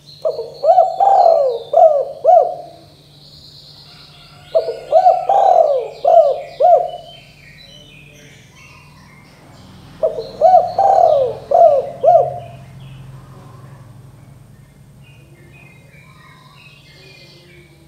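Spotted dove (tekukur) cooing: three phrases of about five low, arching coos each, a few seconds apart. Small birds chirp faintly in the background.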